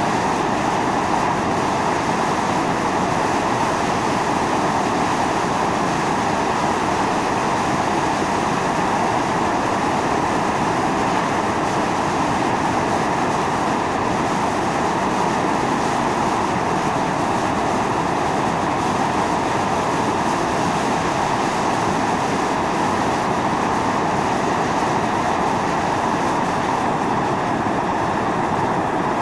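Volcanic fumarole venting steam and gas under pressure: a steady, loud hiss, strongest in the middle register.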